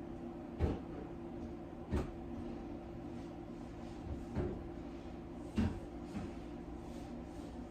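Four dull knocks or bumps, spaced unevenly over several seconds, above a steady low hum.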